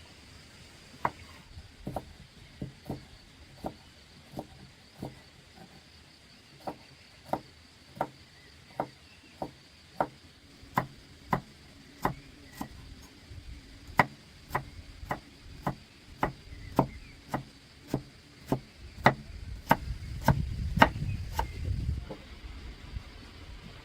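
A series of sharp chopping strikes, at first about one or two a second, then coming faster after the middle. A low rumble rises under the last strikes near the end.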